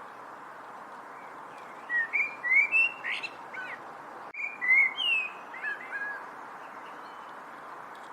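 A songbird singing two quick phrases of short, sliding whistled notes, one right after the other, over a steady background hiss.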